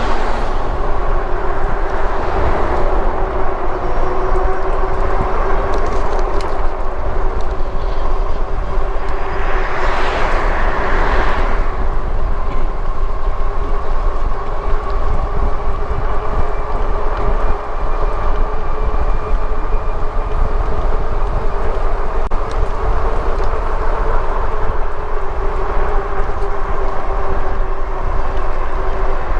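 Riding a Lectric e-bike at steady speed: wind rumbles on the body-mounted microphone under a steady whine from the rear hub motor and tyre noise on the road. A swell of noise comes about ten seconds in.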